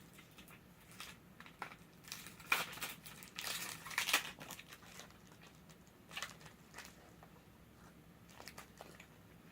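Plastic candy wrapper crinkling in the hands in short, irregular rustles, as a snack packet is handled and opened.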